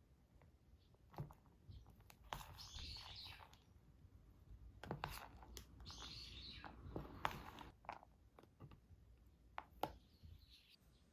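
Faint bird chirps in three short spells, with a few light clicks and knocks of small things being handled.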